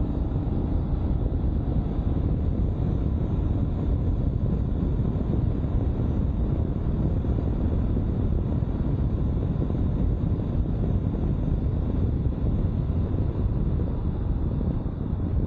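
Steady rush of wind and engine noise from a 2022 Honda CB500X parallel-twin motorcycle cruising at an even speed.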